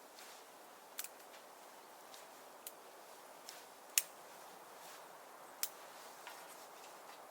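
Firewood burning in a clock-type wood stove, crackling with a few sharp, irregular pops over a steady low rush; the loudest pop comes about four seconds in.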